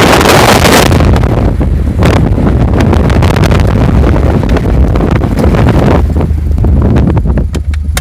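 Loud wind buffeting on the microphone over the rumble of a vehicle driving off-road, with a sharp burst of wind hiss in the first second.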